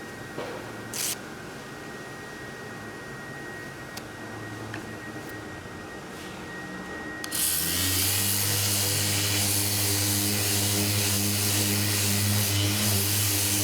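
A motor-driven shop machine with a vacuum-like hiss switches on suddenly about seven seconds in and runs steadily with a low hum under it, over a quieter steady background before it.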